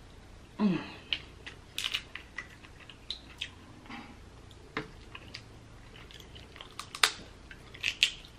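Close-up eating sounds: chewing, and irregular sharp clicks and crackles of Dungeness crab shell being picked apart with the fingers. A short falling hum of the voice about a second in.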